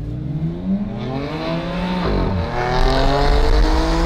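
Audi S4 engine accelerating hard, its pitch rising, dropping once about two seconds in as it shifts up a gear, then rising again.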